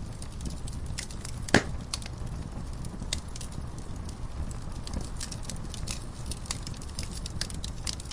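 Wood fire burning in a fireplace, crackling with frequent sharp pops over a steady low rumble of the flames. One loud pop about one and a half seconds in.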